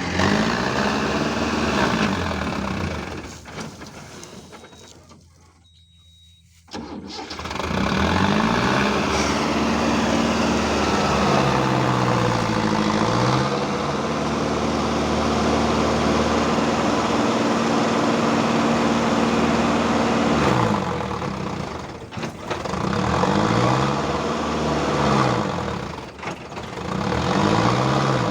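Mahindra tractor harvester's engine revved up and down again and again, with a longer stretch held at high revs in the middle: working hard to get free of deep mud. The sound drops away briefly about five seconds in.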